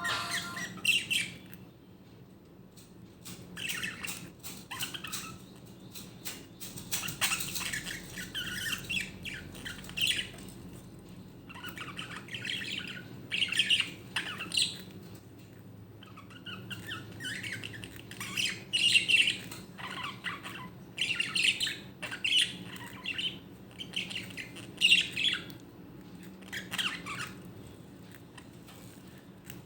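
Budgerigar squawking in short, rough bursts, on and off with brief pauses.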